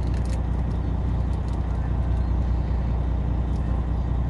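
Fishing boat's engine running steadily, a low even hum, with a few faint clicks near the start.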